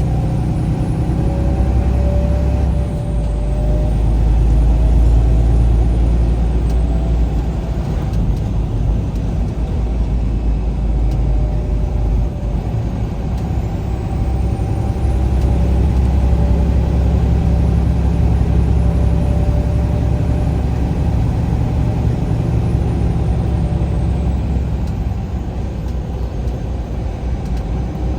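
A vehicle being driven down the road: steady engine and road noise with a heavy low rumble, the engine's pitch slowly rising and falling as speed changes.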